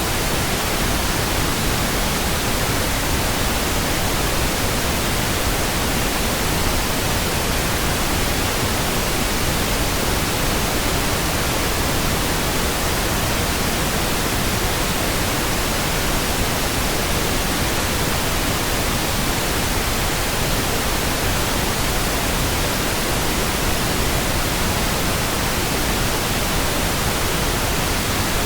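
Steady pink noise: an even, unchanging hiss spread across all pitches, with no tones, clicks or breaks.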